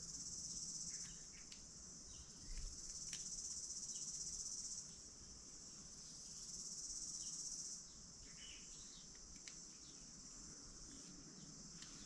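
Insects chirring in a high buzz that swells and fades in phrases of a few seconds, with a few faint clicks.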